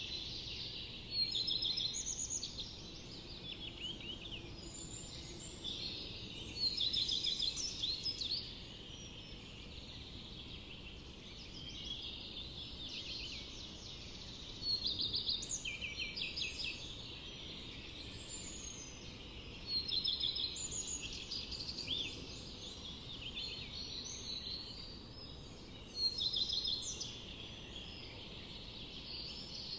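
Songbirds singing in a forest: a steady chatter of chirps, with a louder phrase of rapid, high trilled notes lasting about two seconds, repeated five times at intervals of roughly five to six seconds.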